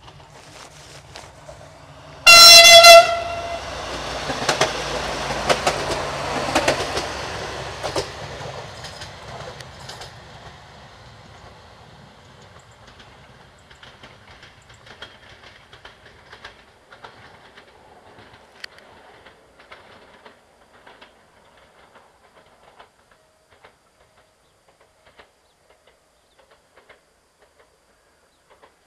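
A Siemens Desiro diesel multiple unit gives one short, loud horn blast about two seconds in. It then runs past with its wheels clattering over the rail joints, and the clicking fades away as it goes off down the line.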